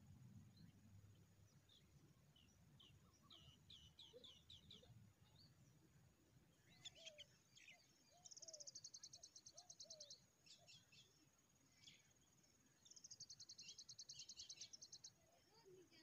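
Faint bird sounds: a quick run of high chirps, then two rapid high trills of about two seconds each, one near the middle and one near the end.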